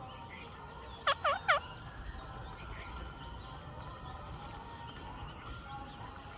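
Indian ring-necked parakeet giving three quick, loud calls about a second in, each swooping down and back up in pitch. Faint chirping continues underneath.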